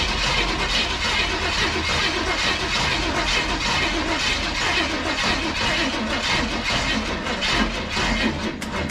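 Starter motor cranking the NASCAR small-block V8, turning it over without it catching. Near the end the cranking gives way to rapid clicking, the sign of a battery too weak to turn the engine.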